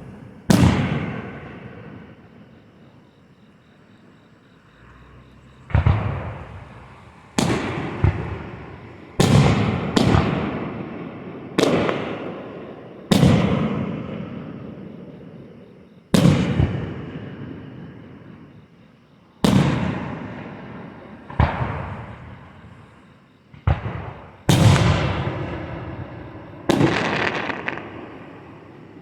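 Fireworks bursting: about a dozen loud bangs at uneven intervals, each trailing off into a long rolling echo.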